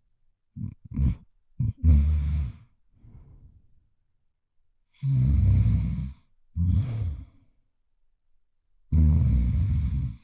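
Loud snoring: a long rasping snore on each breath, followed by a shorter one, repeating about every four seconds, with a few quick short snorts in the first two seconds.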